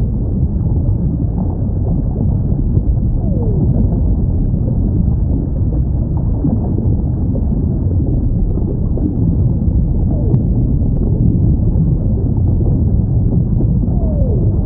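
Underwater recording of whale calls: faint, short falling moans every few seconds over a steady, loud low rumble.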